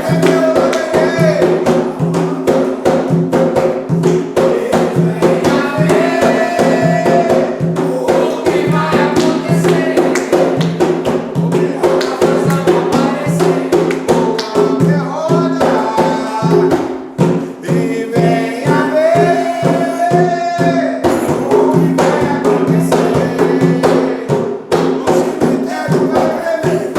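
Umbanda ritual music: voices singing a ponto over rapid, steady hand-drum strokes, with lighter jingling percussion.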